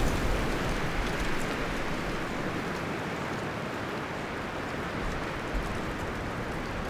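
Wind blowing through forest trees, a steady rustling of leaves and branches, easing off from a stronger gust over the first couple of seconds.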